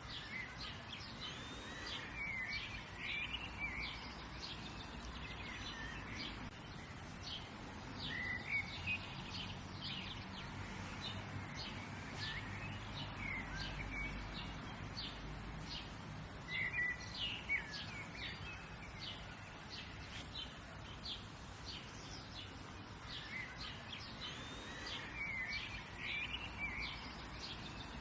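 Several wild birds chirping and singing short phrases over a faint low rumble of background noise.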